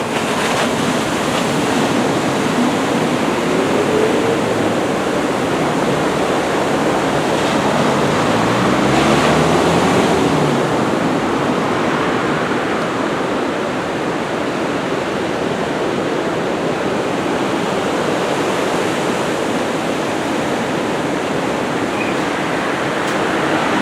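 Ocean surf breaking: a steady rush of waves. An engine rises briefly in pitch about three seconds in, and again more strongly around nine to ten seconds in.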